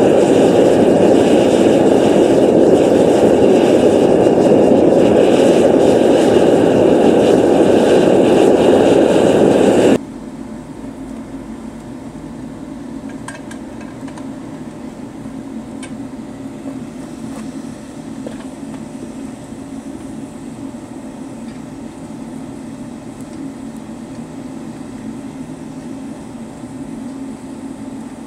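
Oil-fired melting furnace burner and its blower running with a loud, steady roar, which drops suddenly to a much quieter steady hum about ten seconds in.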